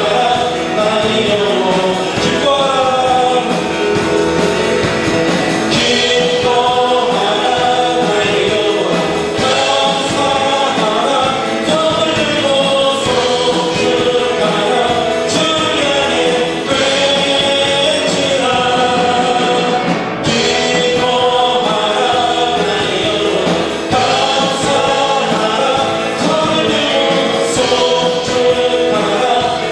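A congregation or worship band singing a Christian worship song with instrumental accompaniment.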